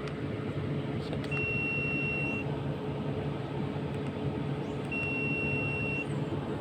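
Two long electronic beeps, each about a second long and a few seconds apart, from a diagnostic scan tool reading fault codes, over the steady hum of the Suzuki DA64's engine running.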